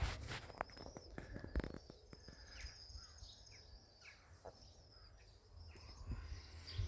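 Faint outdoor background of small birds chirping and twittering, short scattered calls over a high thin trill, with a low rumble of wind on the microphone.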